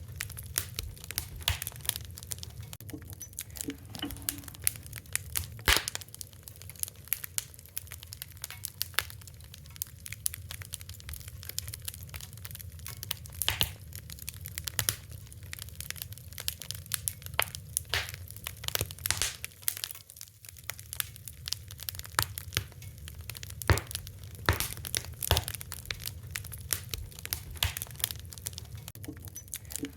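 Fire crackling: a steady stream of irregular sharp pops and snaps over a constant low rumble.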